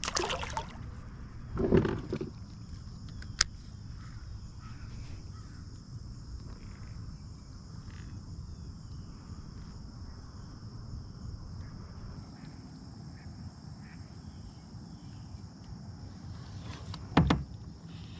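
Kayak on the water: a few knocks and bumps of handling against the hull over a steady low rumble, with a faint steady high tone. A sharp click comes about three and a half seconds in, and a louder bump near the end.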